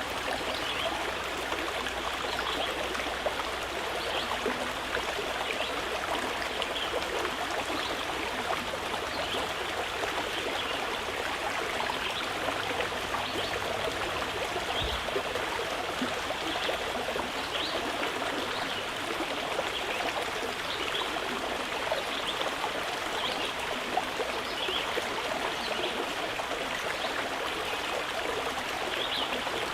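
Mountain river flowing: a steady babble of running water.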